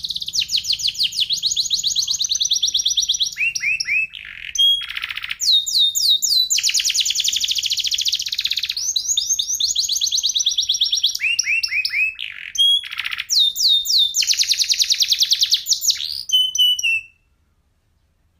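Domestic canary singing a long song of fast trills and rolls: runs of rapid repeated notes broken by short downward-sweeping notes. The song stops about a second before the end.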